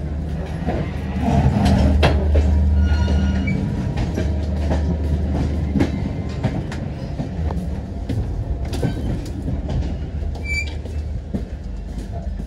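Passenger train running, heard from inside its coaches: a steady low rumble with wheel clatter and short clicks over the rail joints, louder for a few seconds about a second in.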